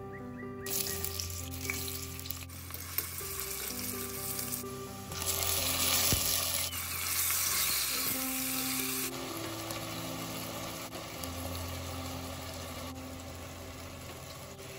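Onions and chicken pieces sizzling in hot oil in a stainless steel pressure cooker while a metal spatula stirs them. The sizzle changes in loudness abruptly several times, loudest around the middle. Soft background music plays underneath.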